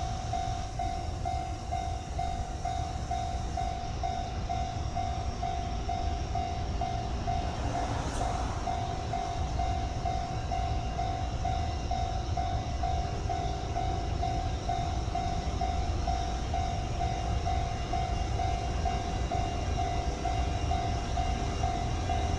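Freight train running by with a steady low rumble, under a single tone that pulses evenly about twice a second. There is a brief louder swell about eight seconds in.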